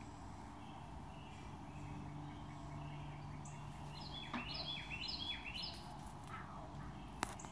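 Faint outdoor ambience with birds chirping from the woods. About four seconds in comes a quick run of five or six short, high, falling calls, and a single sharp click near the end.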